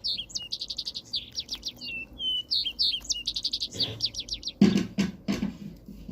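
A songbird singing a repeated phrase of high slurred notes and quick trills. A few dull thumps come just past the middle.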